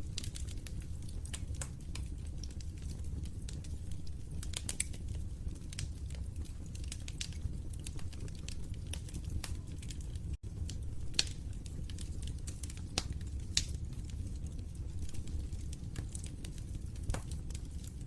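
Wood fire crackling in a fireplace: scattered sharp pops and snaps over a steady low rumble, with a momentary dropout about halfway through.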